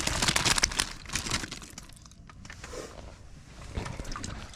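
Crinkly, crackling rustle of material being handled, dense for about the first second and a half, then sparser and quieter.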